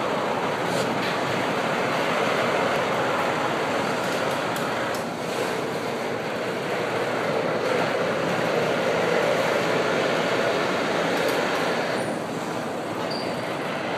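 Empty intermodal cars of a freight train rolling slowly past: a steady rumble of steel wheels on the rails, with a few faint clicks.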